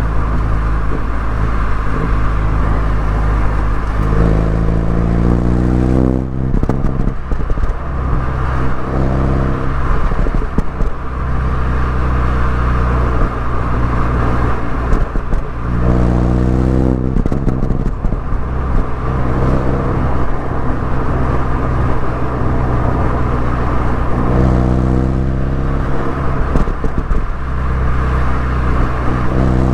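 MINI Cooper S engine and exhaust under way, revving up and dropping back again and again as the car accelerates and lifts off through the bends, with a brief crackle from the exhaust as the revs fall about six seconds in and again past halfway.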